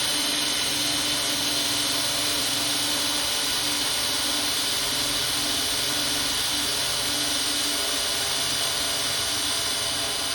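Power drill running steadily under load, a Milwaukee drill bit boring into the workpiece without stalling or slowing.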